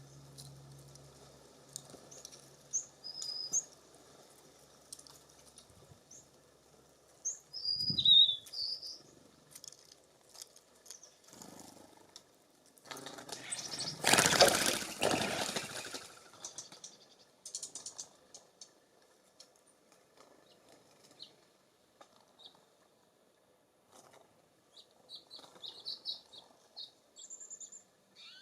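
Small songbirds at a feeder giving short, high chirps and call notes in scattered bouts. About halfway through, a loud rush of noise lasts two or three seconds.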